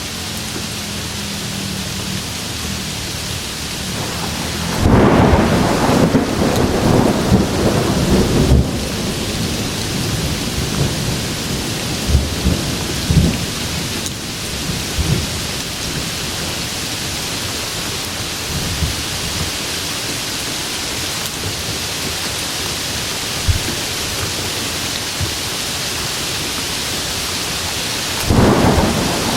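Steady heavy rain with thunder: a long loud rumble from about five to nine seconds in, a few fainter low rolls after it, and another rumble starting near the end.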